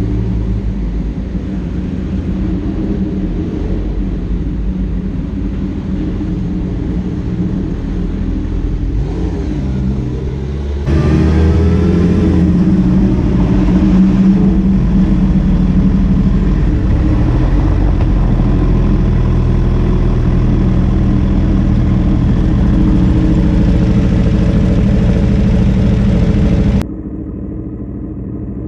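Motorcycle engine running under way, with a steady engine note; about eleven seconds in it gets louder with a rising note as the bike speeds up, then holds there. Near the end the sound drops suddenly to a quieter, duller engine hum.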